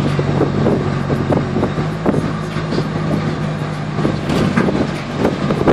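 A car in motion: a steady low engine hum with road and wind noise and occasional light knocks.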